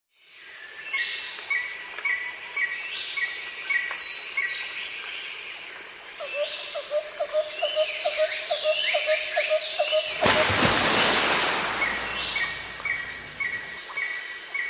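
Several birds singing and calling together: a steady train of short chirps, falling whistled notes, and a lower, rapidly repeated call in the middle. About ten seconds in, a loud rush of noise covers them for about two seconds.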